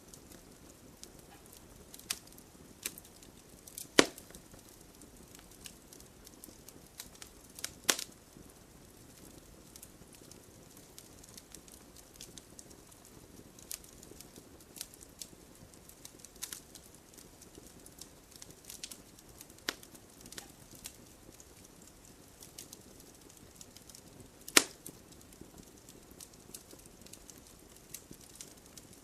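Wood campfire crackling: scattered small ticks and snaps, with a few sharper, louder pops about four, eight and twenty-four seconds in.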